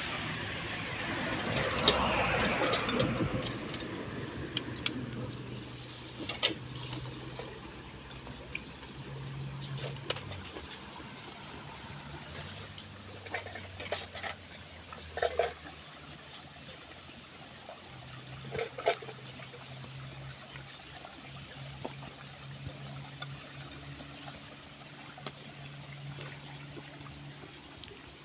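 Water running, loudest in the first few seconds, with scattered light clicks and knocks and a faint low hum.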